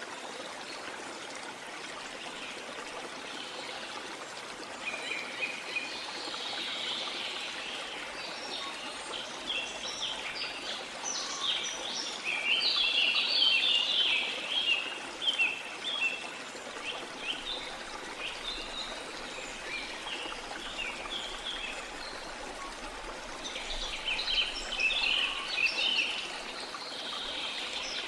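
Small birds chirping in clusters of quick notes over a steady rush of water. The chirping is busiest about halfway through and comes again near the end.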